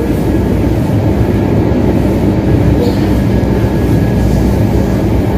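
Train running noise heard from inside a moving passenger coach: a steady rumble of wheels on the rails.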